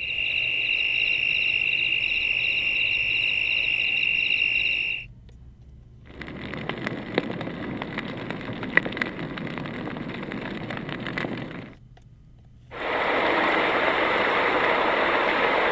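SERENLUX white noise machine's speaker playing its DIY mixer sounds one after another, each for a few seconds. First comes a steady high tone with a fast pulsing chirp, about three beats a second. After a short gap comes a hiss with scattered crackles, and after another gap a steady even hiss.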